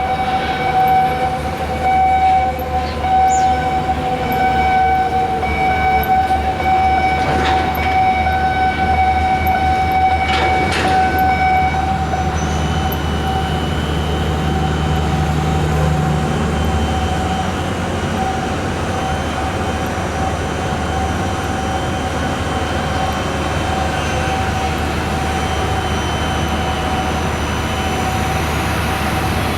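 Heavy machinery running with a low hum under a steady high tone that holds throughout, with a few shorter, fainter tones above it.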